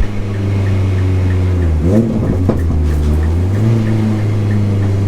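Mini's engine heard on track, holding a steady note, then the pitch drops and climbs back about two seconds in as the driver lifts and changes gear before it settles again. A faint beep repeats about three times a second throughout.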